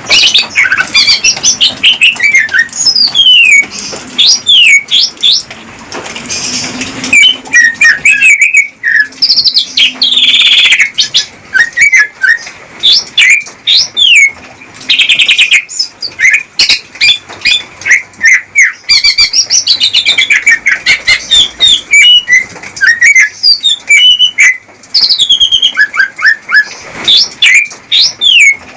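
Male cucak ijo (greater green leafbird) singing a fast, varied song of quick whistled glides and chirps, broken by short rattling trills. It is the male's courtship song to a female.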